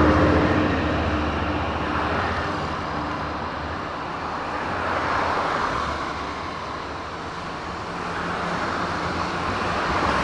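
Distant traffic noise: a steady hiss of vehicles that swells and fades as they pass.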